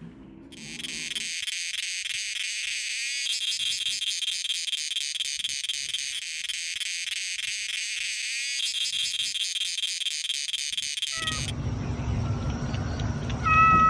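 High, rapidly pulsing insect buzz that runs unbroken for about ten seconds and then cuts off suddenly. A low rumbling noise follows, and a short call near the end.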